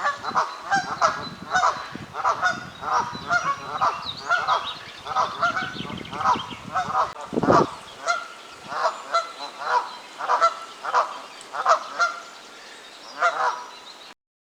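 Canada geese honking over and over, agitated at being driven off by a territorial mute swan. A low rumble runs under the first half, and the honking stops abruptly near the end.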